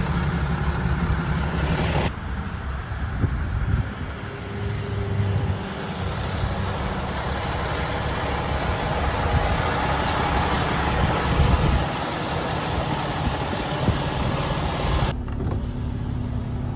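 Steady motor-vehicle engine and road noise with a low rumble. It changes abruptly about two seconds in and again near the end.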